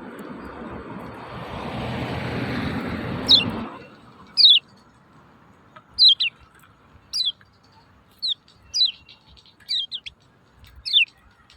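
Kecial kuning (a white-eye) giving its sharp 'ciak ciak' call: short downward-sweeping chirps, about one a second and some in quick pairs. For the first three and a half seconds a rushing noise swells and then cuts off abruptly.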